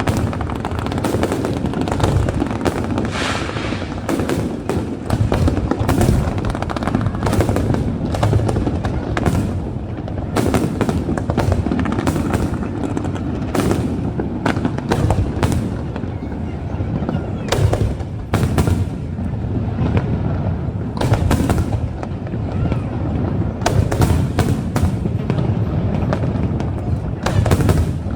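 Aerial fireworks display: shells bursting one after another, dozens of sharp bangs, many in quick clusters, over a continuous low rumbling.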